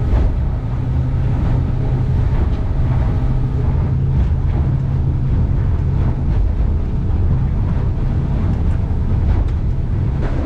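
Boat engine running steadily under way: a constant low drone with no change in pitch.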